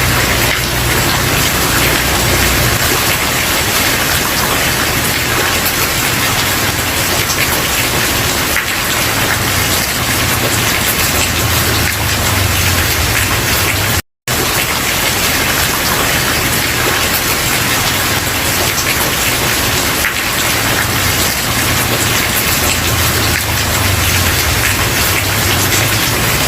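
Steady rain falling on a wooden porch: an even hiss with dense patter of drops. About halfway through it drops out to silence for a split second.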